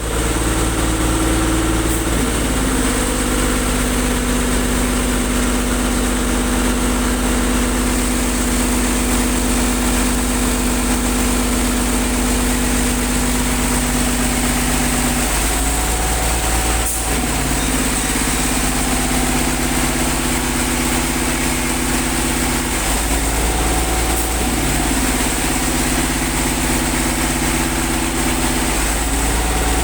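Air compressor's engine running steadily under load while a borewell is flushed with compressed air. Its pitch shifts a few times, with a steady hiss underneath.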